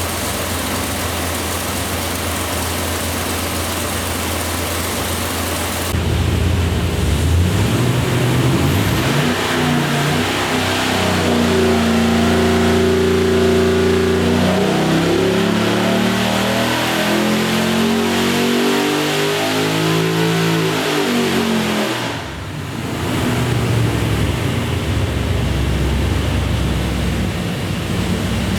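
GM LS V8 running on an engine dyno: it idles steadily, then runs up in pitch, holds high for a couple of seconds and winds back down. The throttle closes abruptly about two-thirds of the way in, and it settles back to a steady idle.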